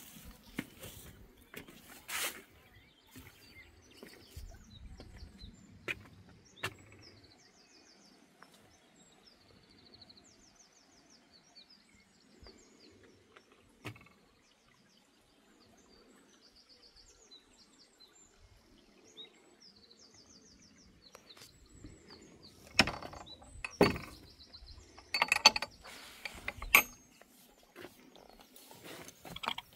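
Small birds singing in the open, repeating short high trilling phrases. Scattered clicks and knocks sound throughout, and a run of loud knocks and clattering comes in the last several seconds.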